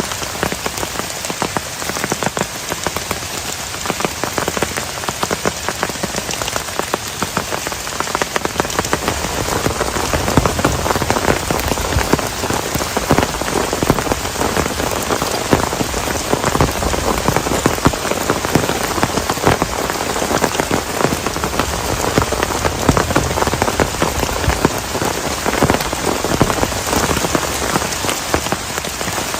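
Heavy rain drumming steadily on a plastic tarp, a dense patter of close, sharp drop hits that grows a little heavier about ten seconds in.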